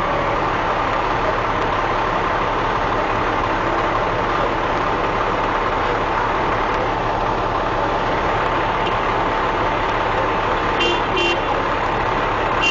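Fire truck's diesel engine running steadily, with a thin steady whine over it. Two short high beeps come near the end.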